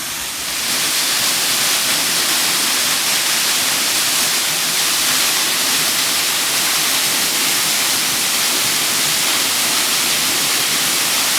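Waterfall, a loud steady rush of falling water that swells up about half a second in.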